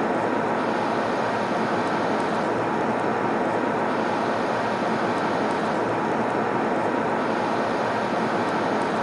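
Steady airliner cabin noise in flight: an even, unchanging rushing hiss, strongest in the low and middle range.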